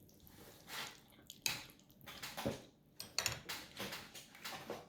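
A metal fork clinking and scraping against a dish in short, irregular strokes as noodles are picked up.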